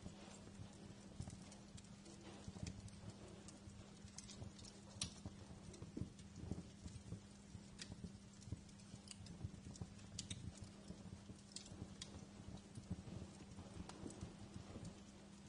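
Wood fire crackling in a fireplace: irregular small pops and snaps, some sharper than others, over a soft hiss and a steady low hum.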